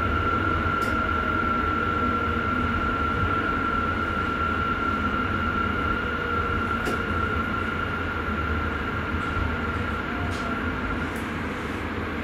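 Inside the driver's cab of a Sprinter electric commuter train running on the rails: a steady low rumble with a steady high whine that fades out near the end. The sound eases off slightly as the train slows.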